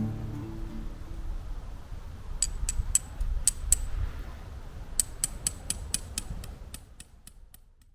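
Acoustic guitar music dies away, then a low rumbling noise carries two runs of sharp clicks, the second about five a second and growing fainter, before everything fades out.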